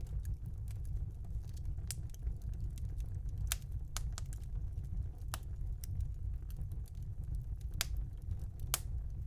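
Fire crackling in a fireplace: scattered small crackles and about six sharper pops spaced irregularly a second or more apart, over a steady low rumble.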